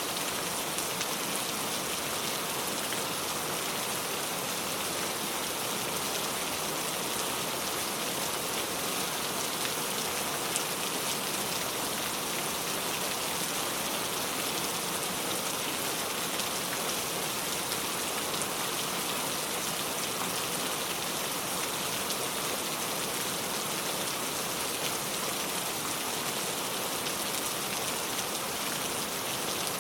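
Steady rain falling on a car, a dense even patter of drops with fine ticks.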